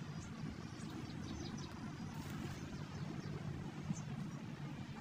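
Faint, short bird chirps now and then over a steady low outdoor rumble.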